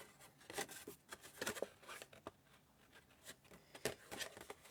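Cardstock being folded and creased by hand: faint, irregular rustles and small taps of paper, with a sharper click a little before the end.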